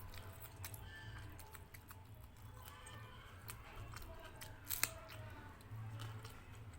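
Close-miked eating sounds: chewing and small wet mouth clicks, with one sharp click a little before the end, over a faint steady low hum.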